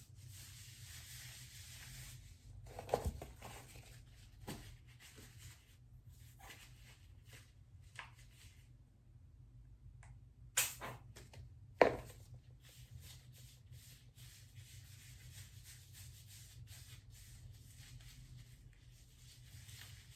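Quiet handling sounds of hands working hair dye through hair from an applicator bottle: soft rubbing and scattered light clicks, with a few sharper knocks, the loudest about halfway through, over a low steady hum.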